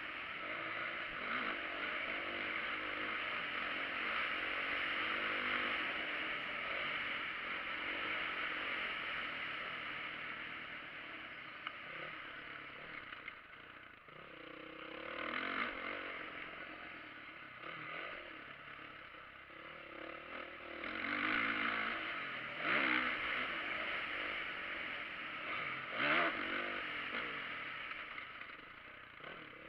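Motocross motorcycle engines running and revving, the pitch rising and falling as the throttle opens and closes, with several louder swells as bikes come closer, and some clatter.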